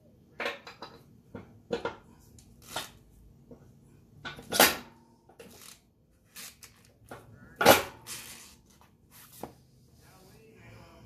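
Hand tools and metal parts knocking and clattering while a motorcycle wheel is being installed: a string of sharp separate knocks, the loudest two about four and a half and seven and a half seconds in.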